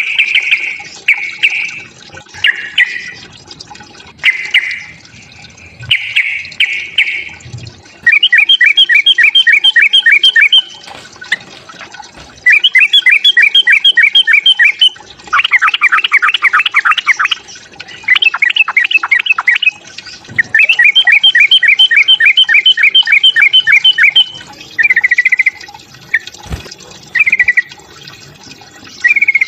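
Yellow-vented bulbul (trucukan) giving its loud fighting song: rapid chattering phrases of quick repeated notes, about seven a second, each phrase lasting one to four seconds, with short pauses between.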